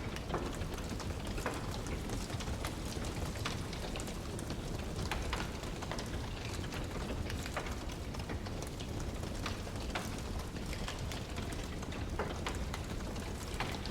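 Wood fire in a fireplace crackling: irregular sharp pops and snaps over a steady low rumbling noise bed.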